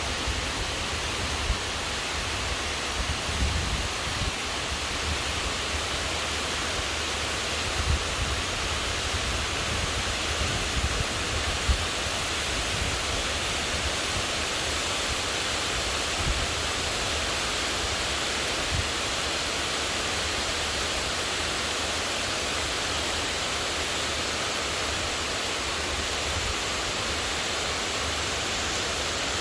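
Heavy rain pouring down in a steady, even hiss, with a few brief low bumps underneath.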